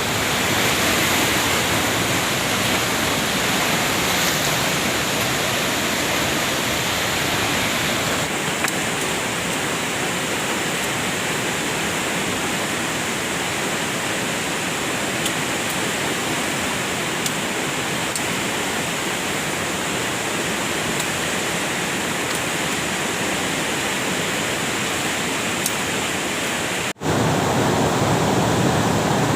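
Waterfall's steady rush of falling water. Near the end it breaks off for an instant and comes back louder and deeper.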